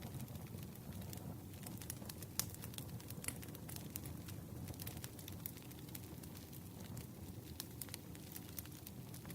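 Campfire burning: a steady low rumble of flames with frequent sharp, irregular crackles and pops of the burning wood.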